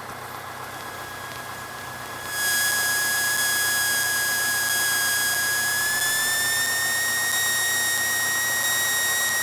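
A steady high-pitched whine with hiss comes in about two seconds in and rises slightly in pitch midway. Under it is the low hum of the Cessna 152's idling engine, heard through the cockpit headset audio.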